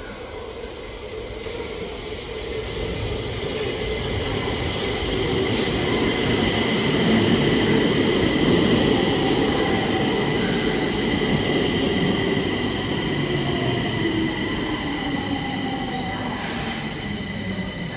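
Stockholm Metro train running past, growing louder over the first several seconds, with a steady high-pitched squeal from the wheels on the rails and a lower running hum that slowly falls in pitch.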